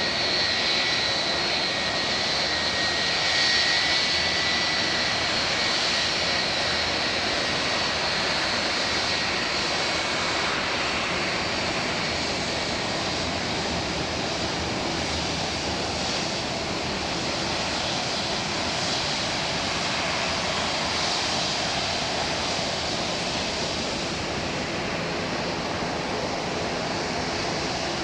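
Boeing 757-200F jet engines running: a steady roar with a high turbine whine that fades over the first few seconds. It is loudest a few seconds in and then slowly dies away.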